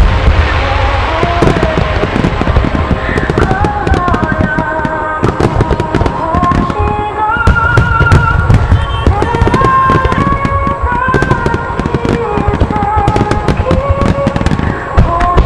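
A dense barrage of aerial firework shells bursting, with deep booms and sharp cracks in quick succession. Melodic music plays over loudspeakers at the same time.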